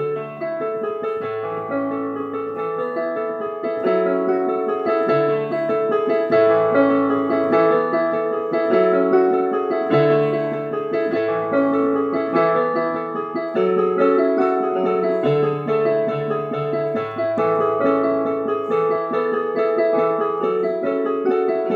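Solo piano playing a melody over held low bass notes that change every second or two.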